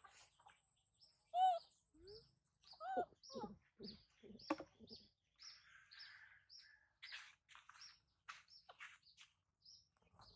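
Birds chirping: short high chirps repeating about twice a second, with a few louder, lower animal calls in the first half.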